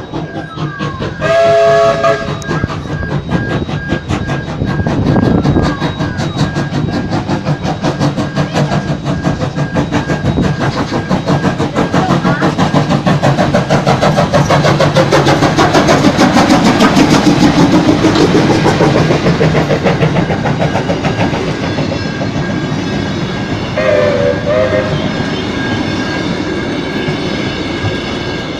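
Train passing close by: steady rumble and rapid clatter of wheels on the rails, building to its loudest midway and then easing off. A multi-tone horn sounds briefly near the start and again a few seconds before the end.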